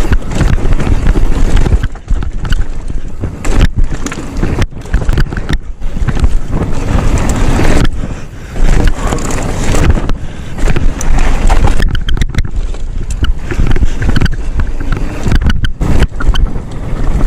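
Mountain bike ridden on a dirt trail, heard from a GoPro on the bike or rider. A loud, continuous rush of wind on the microphone and tyres rolling over rough ground, with rattling from the bike and many brief breaks in the noise.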